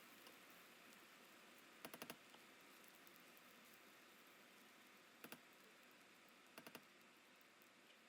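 Near silence with a faint steady hiss, broken by three short clusters of faint clicks: about four clicks two seconds in, two around five seconds, and three near seven seconds.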